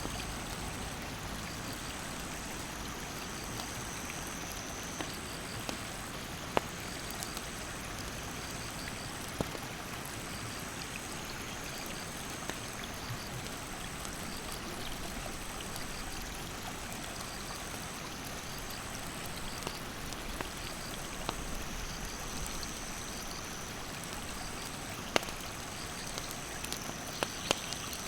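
Steady rush of a rocky mountain stream, with sharp single pops and crackles from a wood campfire every few seconds, the loudest about six seconds in and near the end. A high, evenly pulsed insect call repeats throughout.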